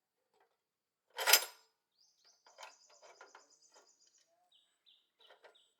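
A single sharp metallic clank about a second in, followed by a run of lighter clinks of metal parts, with small birds chirping and trilling.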